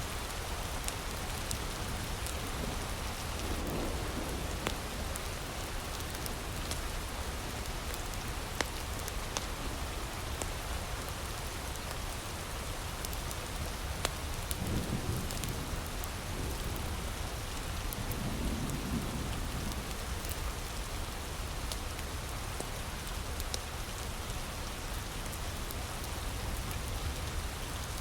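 Heavy rain falling steadily, with scattered sharp crackles and pops from a nearby wood fire. A few soft low rumbles swell up now and then, about four seconds in and again in the second half.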